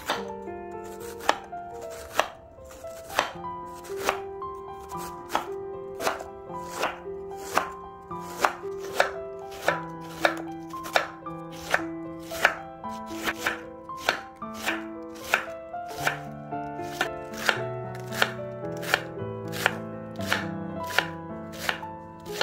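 Knife chopping vegetables on a cutting board, steady strikes about two a second, over gentle background music.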